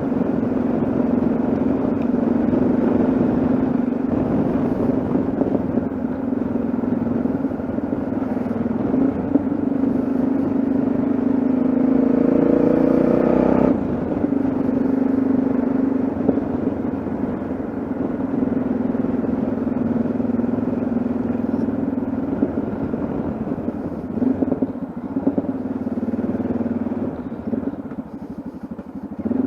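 Yamaha XT660Z Ténéré's single-cylinder engine running steadily under way. The revs climb briefly and drop suddenly about fourteen seconds in, and the engine eases off near the end.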